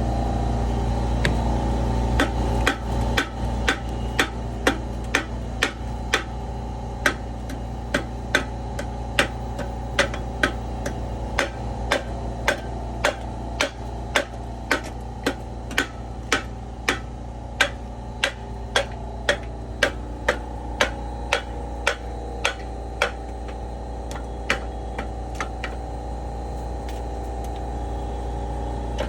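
Hammer blows striking metal in a steady rhythm, about two a second, knocking rust off a pump, over a steady low machine hum. The blows start a couple of seconds in and stop a few seconds before the end.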